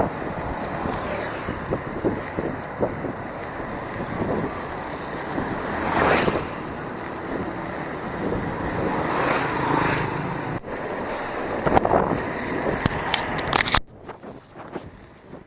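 Wind buffeting the microphone and a bicycle rattling over a rough dirt trail, swelling in gusts several times, then dropping off sharply near the end.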